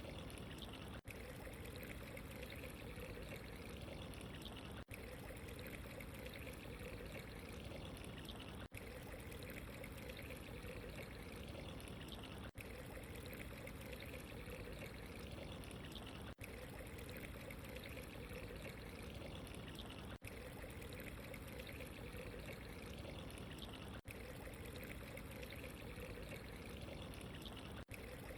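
Steady trickling running water, with a very brief dropout about every four seconds.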